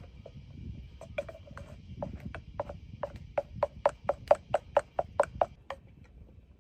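Sharp knocks of wood being struck, irregular at first, then a steady run of about four a second that grows louder and stops shortly before the end.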